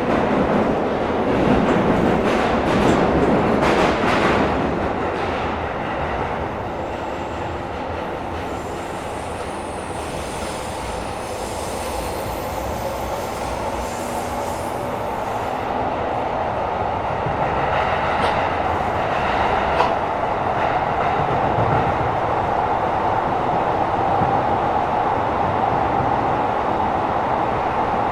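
Tokyo Metro 17000 series subway train running between stations, heard from inside the car: a continuous rumble of wheels on rail, louder for the first few seconds, with a steady tone coming in about halfway through.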